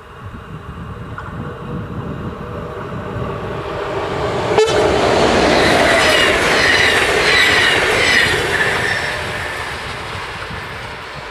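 NS Class 1700 electric locomotive hauling DDAR double-deck coaches passing close by at speed. Rail and wheel noise builds up, with a sharp crack about four and a half seconds in. It is loudest for a few seconds as the train goes by, then fades away.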